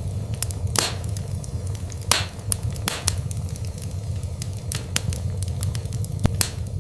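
Wood fire burning in a fireplace: a steady low rumble of the flames with irregular sharp crackles, and a few louder pops about one, two and three seconds in.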